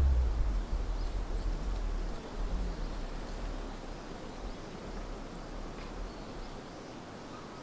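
Outdoor ambience: a low rumble that fades away over the first few seconds, with a few faint high chirps.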